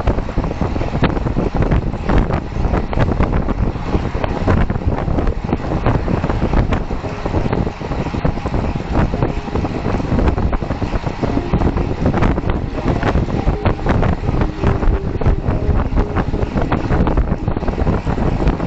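Heavy wind rushing and buffeting over a moving rider's camera microphone, a dense steady roar with constant small gusts.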